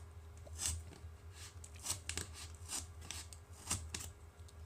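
Sharp hobby knife cutting into a thin cardboard rocket body tube: a few short, scratchy strokes spread a second or so apart.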